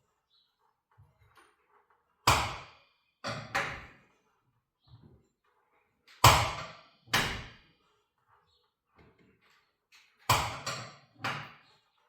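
Steel winding bars clanking in the winding cone of a garage door torsion spring as the spring is unwound a step at a time to release its tension. Sharp metallic clanks come in three pairs, about four seconds apart.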